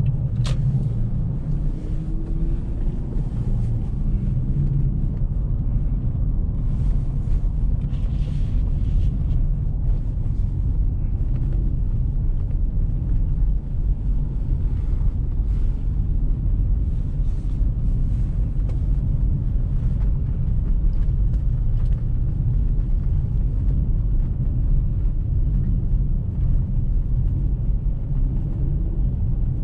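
Car driving, a steady low rumble of engine and road noise with passing bursts of hiss.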